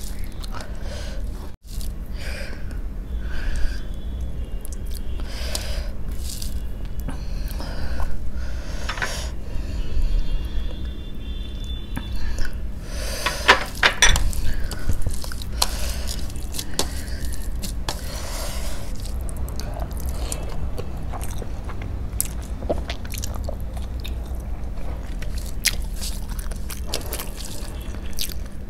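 Close-miked eating sounds: chewing of rice and egg curry, with fingers mixing and squishing rice on a steel plate and scattered small scrapes and clicks, busiest about halfway through. A steady low hum runs underneath.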